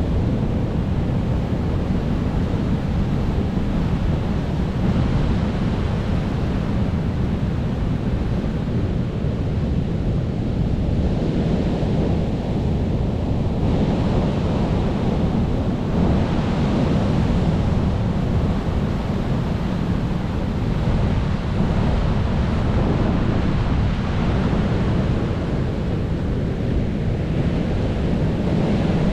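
Ocean surf: waves breaking continuously as a steady low rumble of noise, swelling and easing every several seconds as each set of breakers comes in.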